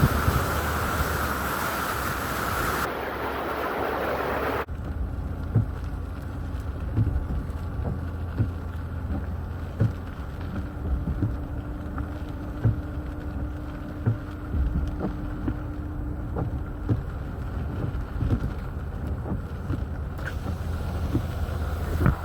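Tropical-storm wind and rain noise on the microphone: a loud hiss that cuts abruptly about four and a half seconds in to a low buffeting rumble with scattered small taps.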